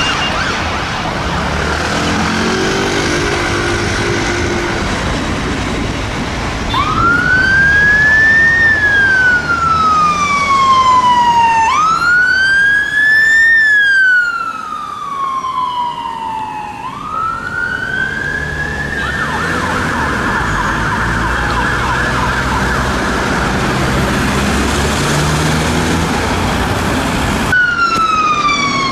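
Siren of a Honda CR-V ambulance rapid response car on an emergency call, over road traffic noise. About seven seconds in it sounds a slow wail, rising and falling three times, then switches to a fast steady warble. Just before the end a cut brings in another vehicle's wailing siren.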